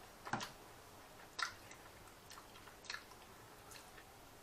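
A person chewing a mouthful of roast goose meat, with a few short, soft mouth clicks.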